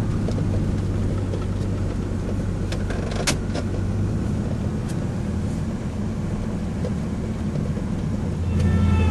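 Car engine drone and road noise heard from inside the cabin while driving, with a single sharp click about three seconds in; the engine drone grows louder near the end.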